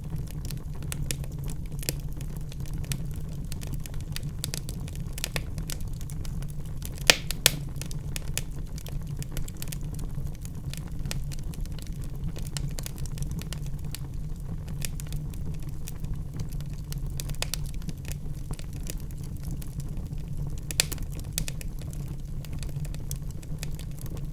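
Wood fire crackling in a fireplace: a steady low rumble of the flames with scattered small pops, and a few sharper cracks, two close together about seven seconds in and one near the end.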